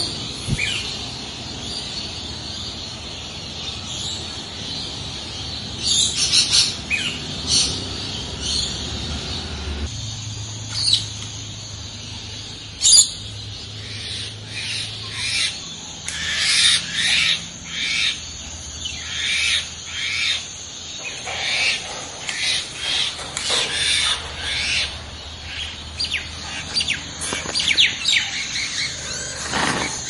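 Birds chirping and calling in many short, high calls, sparse at first and much busier from about halfway through.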